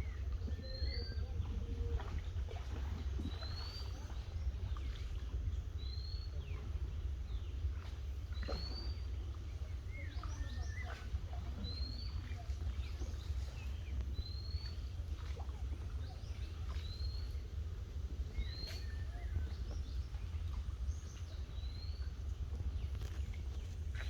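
Wild birds calling. One bird repeats a short rising whistle about every two seconds, with other scattered calls among it, over a steady low rumble.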